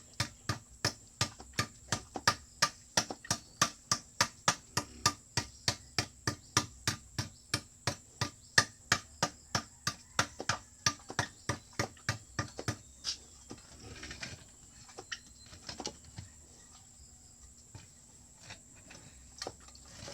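A fast, even run of sharp clicks or taps, about three a second, that thins out to scattered, weaker taps about two-thirds of the way through.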